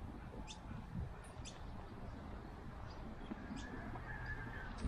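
Birds chirping: a few short, high single chirps spaced a second or more apart, over a low steady rumble.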